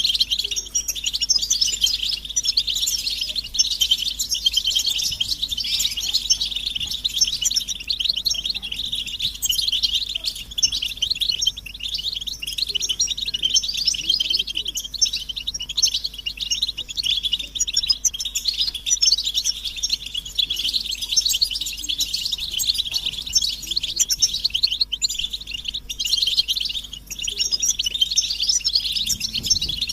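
Several European goldfinches twittering and singing together: a dense, unbroken chatter of quick, high, overlapping chirps with no pauses.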